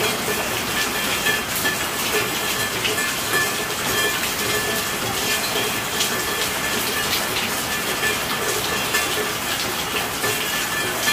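Steady rainfall: an even hiss of rain with many separate drops ticking sharply through it.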